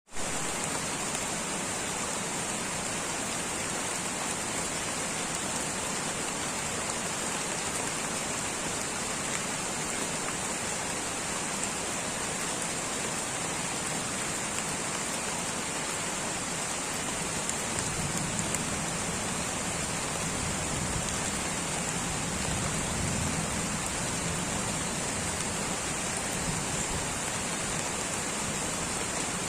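Light rain falling steadily in a tropical rainforest, an even patter with a constant high hiss. A soft low rumble swells for several seconds past the middle.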